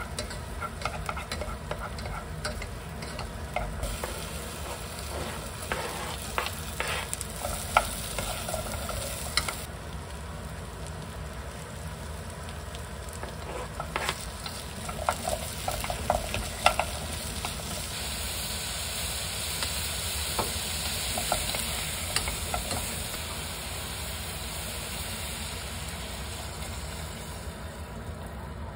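Chopped onions sizzling in a pot as a wooden spoon stirs them, scraping and tapping against the pot: the onions are being sautéed to caramelize. Partway through, diced potatoes, carrots and pork are tipped in with a few knocks, followed by a steadier sizzle.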